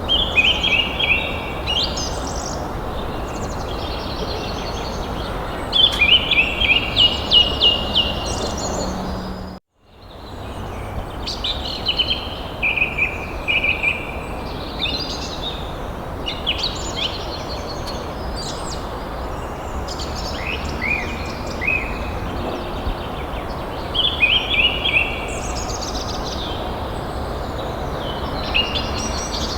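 Songbirds chirping in short repeated phrases, in clusters every few seconds, over a steady background noise. The sound cuts out for a moment about a third of the way through, then the birds and background resume.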